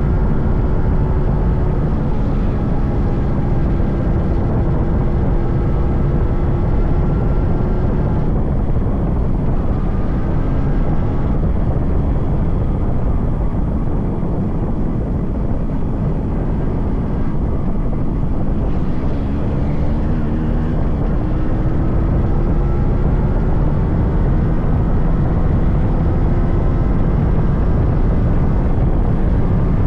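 Yamaha RX 100's 98cc air-cooled two-stroke single running under way, its pitch rising and falling with the throttle over a steady low rumble of wind and road. It eases off about a third of the way in and picks up again past the middle.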